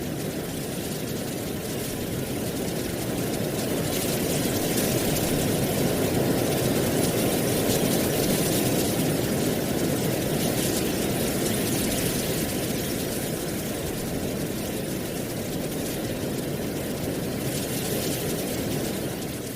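Wind blowing through dry autumn leaves: a steady rushing noise with a high rustle that comes and goes in gusts. It swells a few seconds in and eases off in the second half.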